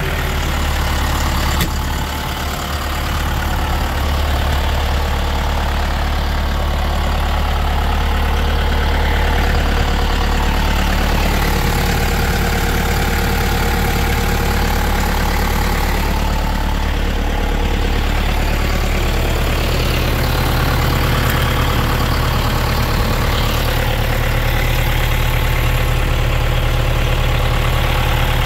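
John Deere 6110 tractor's four-cylinder turbo diesel engine idling steadily.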